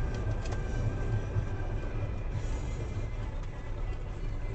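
Low, steady rumble of a car driving slowly, heard through a dashcam inside the cabin: engine and tyre noise, with a few faint clicks about half a second in.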